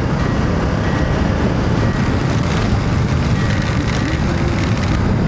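Hero Xpulse 200 4V single-cylinder motorcycle riding at a steady speed, its engine running under a constant rush of wind and road noise on the microphone.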